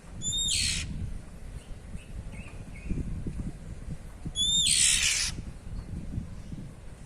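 Oriental magpie-robin (kacer) giving two harsh 'cier' calls about four seconds apart, each a short rising note breaking into a raspy hiss. A steady low rumble runs underneath, with a few faint short notes between the calls.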